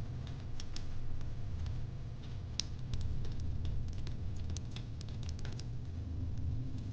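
Fire pit crackling: irregular small pops and snaps, some sharper than others, over a steady low rumble.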